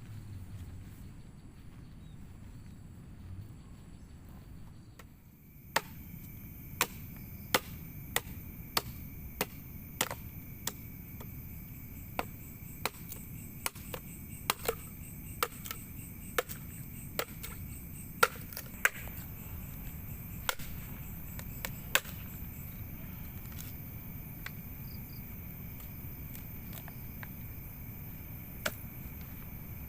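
Repeated sharp strikes, starting about five seconds in, at a little over one a second, then thinning to a few scattered ones, over a steady background hiss.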